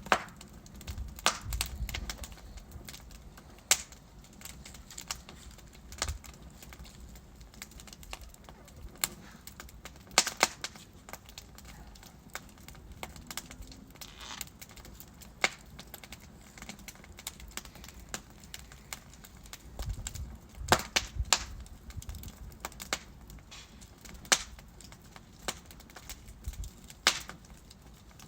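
Wood fire in a fireplace crackling: irregular sharp pops and snaps of burning logs over a low steady hiss, with brief flurries of crackles now and then.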